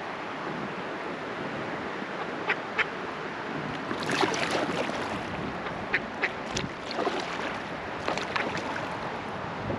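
Steady rush of river water around a drifting raft, with a scatter of short, sharp splashes, the busiest stretch about halfway through.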